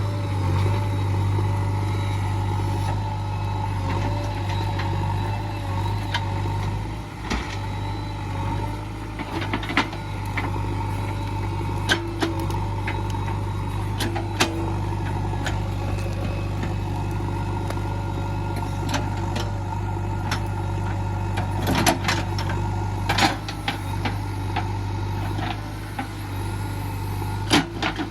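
Diesel engine of a JCB 3DX backhoe loader running steadily, with scattered sharp knocks and clatters, a few louder ones clustered about three-quarters of the way through and just before the end.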